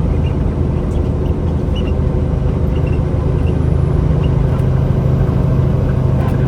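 Semi-truck's diesel engine droning steadily while driving, with road noise; the low drone grows slightly stronger about halfway through.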